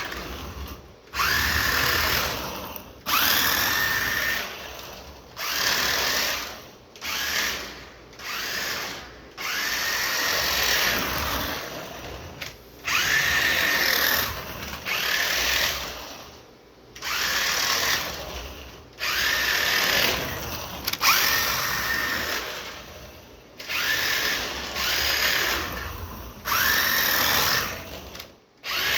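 Small toy RC drift car's electric motor whining in repeated throttle bursts, each rising in pitch and then holding, with short gaps between them.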